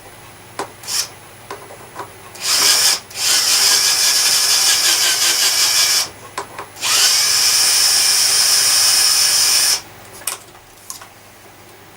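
A small power tool runs in three bursts: a short one, then two of about three seconds each with a brief stop between, each a steady high-pitched whirr. Light handling clicks come before and after.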